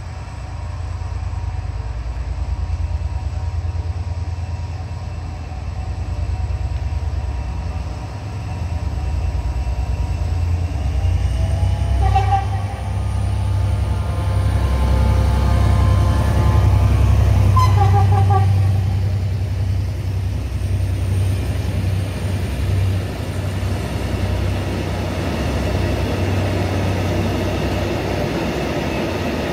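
EMD GT22HW-2 diesel locomotive's two-stroke V12 engine running with a steady low throb, loudest in the middle. Two short horn toots sound about five seconds apart.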